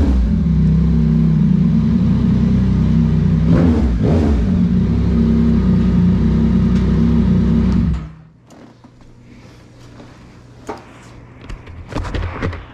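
Yamaha MT-09's three-cylinder engine running loud and steady through a Dominator HP3 aftermarket exhaust while the bike is ridden, with two brief rises and falls in pitch. About eight seconds in the engine sound cuts off abruptly, leaving a much quieter background with a few light knocks.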